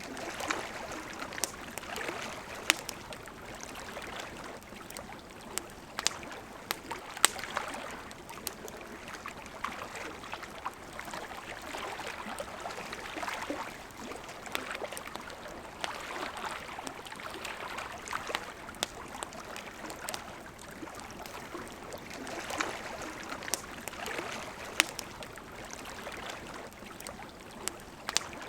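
River water flowing and trickling, with a campfire's wood crackling and popping in sharp, irregular snaps throughout.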